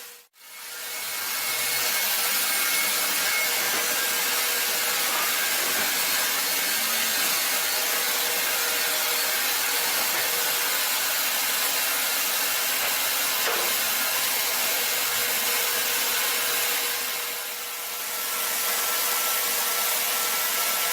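Powered saw of a wood-cutting machine running through timber, giving a steady, loud cutting noise. It starts just after a brief silence and eases for a moment about three-quarters of the way through.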